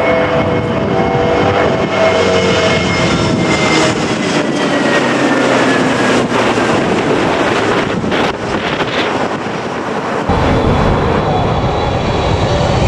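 Jet airliner passing low overhead on final approach to land, its engine whine sliding down in pitch as it goes by. A deep rumble sets in suddenly near the end.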